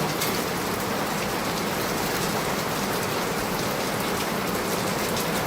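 Rain falling steadily: a dense, even hiss with faint ticks of single drops hitting a surface.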